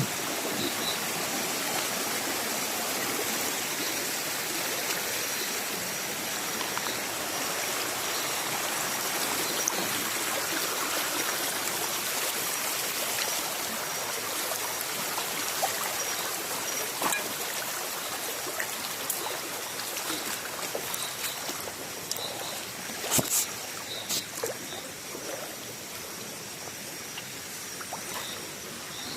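Shallow stream water running and trickling steadily, with a few sharp knocks about twenty-three seconds in.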